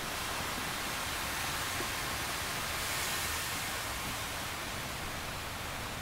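Steady rushing noise of ocean surf and wind on a beach.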